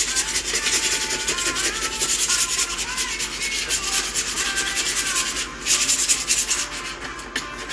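Hand scraper scraping dried spill residue off a floor in rapid, repeated strokes, with a short pause a little past the middle.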